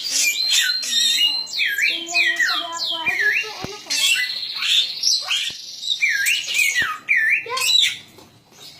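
Cililin bird singing a fast, varied song of quick chirps and swooping whistles that dip and rise in pitch. The song stops about a second before the end.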